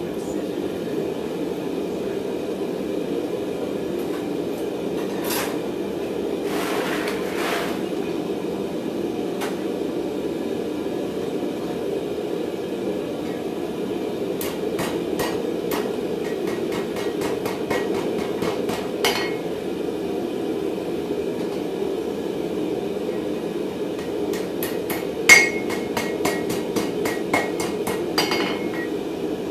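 Hammer strikes on a steel bar at the anvil during forging. Quick runs of blows come about halfway through and again near the end, with the loudest strike about three-quarters in, over a steady rushing hum.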